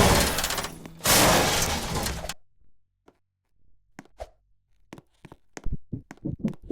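Two loud crashing bursts of noise: the first fades out about a second in, the second lasts about a second. Then it goes quiet, and scattered short knocks and clicks follow, growing busier near the end.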